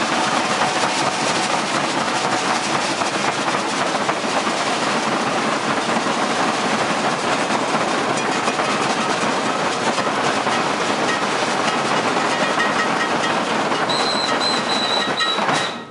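Maracatu de baque virado percussion ensemble playing: a dense, steady mass of rapid drum and snare strokes. A high steady whistle note sounds for about a second and a half near the end.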